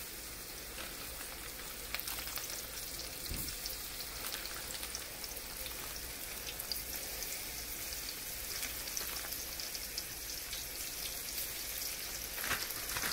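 Cornmeal-coated catfish nuggets frying in hot oil in a cast-iron skillet: a steady sizzling hiss full of small crackles and pops, growing a little louder as more pieces go into the pan.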